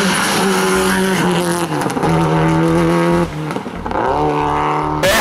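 Rally car engine running hard at high revs, its pitch holding and stepping with gear changes, with a short lift off the throttle about two-thirds of the way in before it pulls again.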